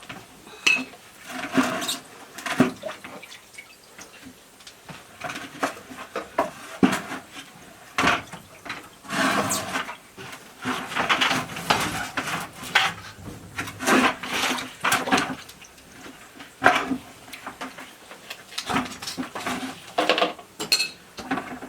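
Irregular clinks, knocks and scrapes of metal and plastic hose fittings and tools being handled while a hose is connected to a water heater's inlet.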